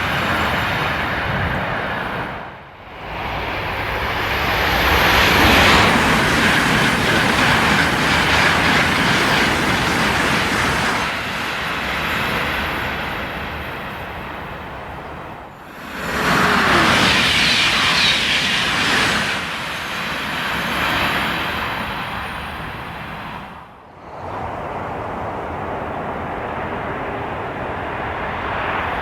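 High-speed TGV trains running through a station at speed, a loud rushing roar of wheels on rail and air. The roar swells and fades across several passes, dropping away sharply three times.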